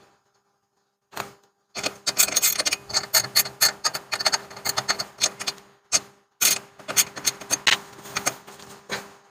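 Hand tools working on truck suspension hardware: a run of quick, sharp metallic clicks, like a ratchet wrench being worked in fast strokes, with a short pause about six seconds in.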